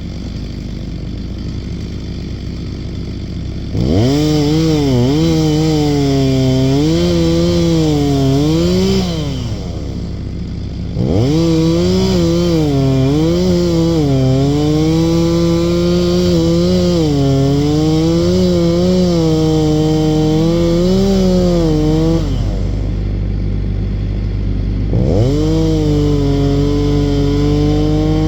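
Gas chainsaw cutting wood in three bursts. It idles, then is throttled up about four seconds in, around eleven seconds in and again near the end. Under throttle its pitch dips and recovers as the chain bites, and it drops back to idle between cuts.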